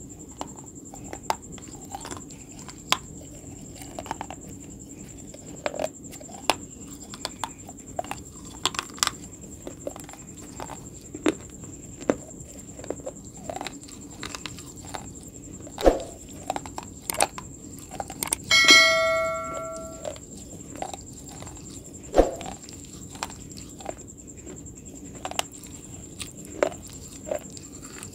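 Close-up chewing of crunchy food: irregular crisp crunches and clicks from the mouth. About two-thirds of the way through, a brief bell-like ring of several tones lasts about a second and a half. A faint steady high whine runs underneath.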